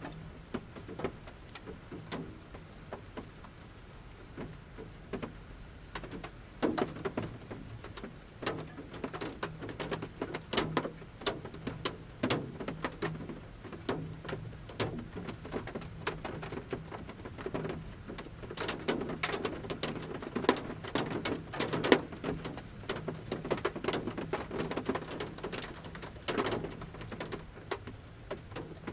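Large raindrops dripping from the forest canopy onto the roof of a camper van, heard from inside: irregular taps and patters, thicker in the second half.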